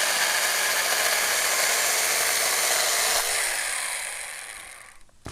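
A 24-volt cordless ASJMREYE 4-inch mini chainsaw cuts quickly through a small tree limb. About three seconds in the sound drops and the motor winds down with falling pitch, fading away over the next two seconds.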